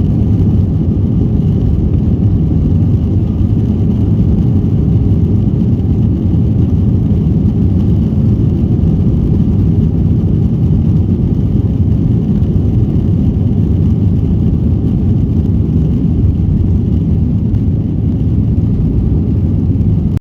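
Jet aircraft engines during takeoff: a loud, steady, deep rumble with a faint high whine, holding unchanged throughout.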